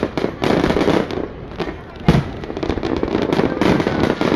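Aerial fireworks bursting overhead: a rapid run of crackling and popping, with one heavy bang about two seconds in.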